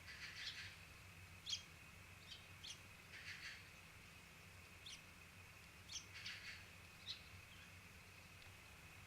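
Faint, short chirps of small wild birds, about nine scattered calls over a few seconds.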